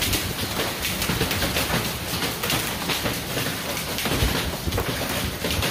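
Hailstorm: rain and hail pelting down, a dense rush of noise packed with many sharp hits.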